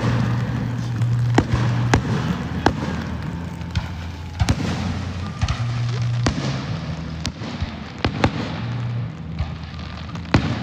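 Aerial fireworks going off: a rapid, irregular series of sharp bangs and crackling pops, several a second at times.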